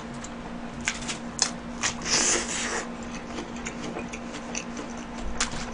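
Close-miked chewing of a mouthful of hamburger: soft, scattered wet mouth clicks and smacks, with a short hiss about two seconds in, over a faint steady hum.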